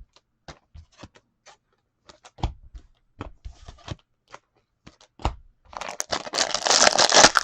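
Trading cards being handled with scattered light clicks and taps, then, about six seconds in, a foil card-pack wrapper being torn open and crinkled.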